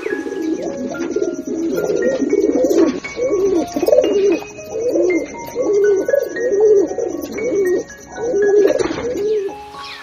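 Pigeons cooing: a steady run of repeated low, wavering coos that stops shortly before the end. Soft background music with short plinking notes plays underneath.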